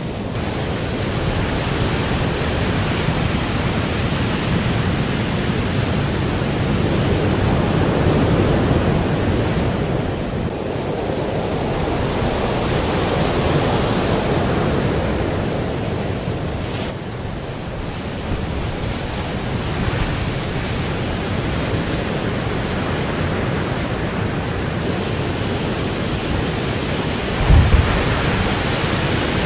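Typhoon-driven heavy surf and strong wind on the shore: a continuous roar that swells and eases as waves roll in. A brief low thump of wind on the microphone near the end.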